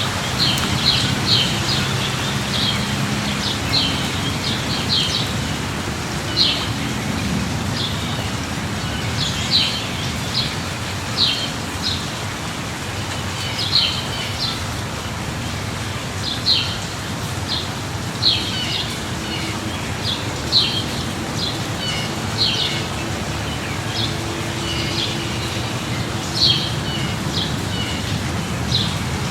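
Steady rain hiss with a bird chirping over it, short high calls repeated every second or two, and a low steady hum underneath.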